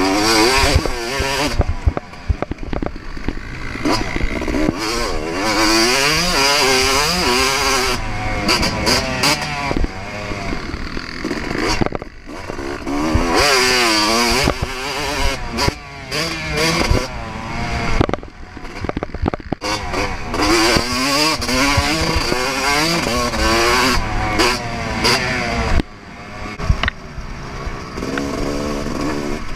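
2024 Yamaha YZ250 single-cylinder two-stroke motocross bike ridden at full throttle. The engine revs up and down repeatedly through the gears, with several brief throttle cuts.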